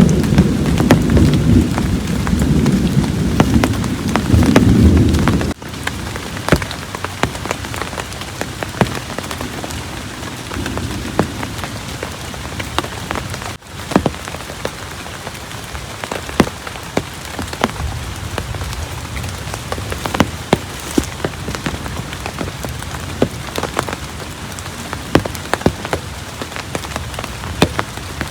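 Heavy rain falling steadily, with many sharp ticks of large drops hitting a surface. A low rumble of thunder runs under it for the first five seconds or so and stops abruptly.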